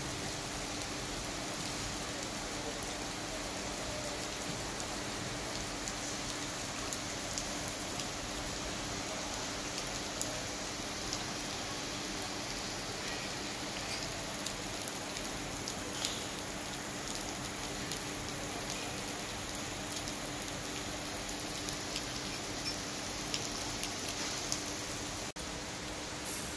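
Steady rain falling on a wet asphalt road, with scattered individual drops ticking, briefly cutting out near the end.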